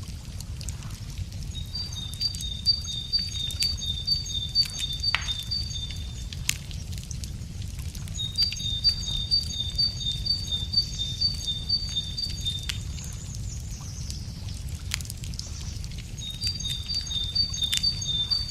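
Wood fire crackling with irregular sharp pops over a steady low rumble, while a songbird sings a rapid series of repeated high notes three times, each phrase about four to five seconds long.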